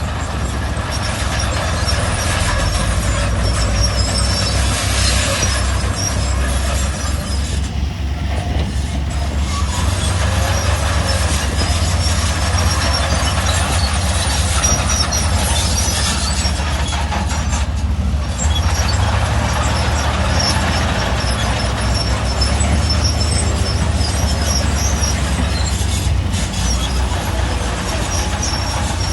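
Heavy diesel earthmoving machine working: a steady low engine drone with high metallic squealing and clanking over it, typical of a crawler bulldozer's tracks.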